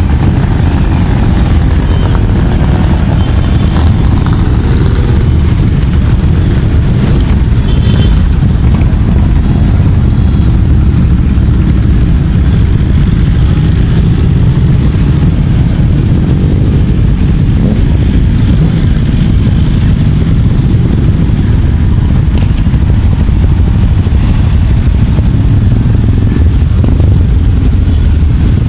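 Motorcycle engines running in a continuous, loud stream of bikes riding past, with no break.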